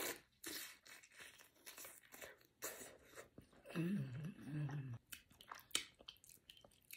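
Close-miked mouth sounds of eating sauce-coated king crab: a bite, then wet chewing and smacking with many small clicks. About four seconds in, a short hummed "mmm" of enjoyment is heard through closed lips.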